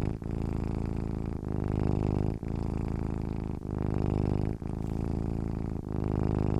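Domestic cat purring steadily while asleep, a low even rumble with a brief break about once a second as its breath turns between in and out.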